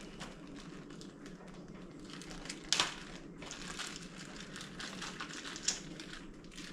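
Plastic parts of a compact electric pressure washer being handled and fitted together during assembly: scattered light clicks and rustling, with a sharper click about three seconds in and another near the end.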